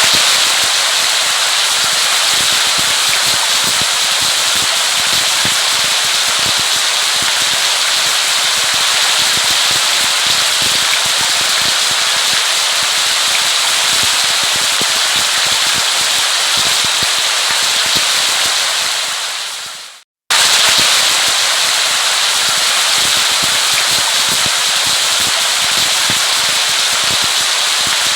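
Steady heavy rain, a dense hiss full of crackling drop impacts. About two-thirds of the way through it fades quickly to a brief silence and then starts again abruptly, as a looped recording restarts.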